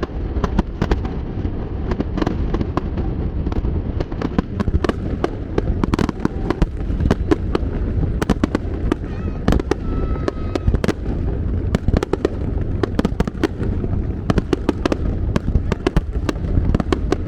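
Fireworks barrage: many aerial shells bursting in rapid succession, with sharp overlapping bangs and crackle over a steady low rumble.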